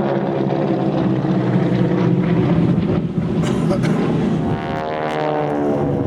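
Propeller aircraft engine droning in a display flypast, its pitch shifting as it passes about five seconds in.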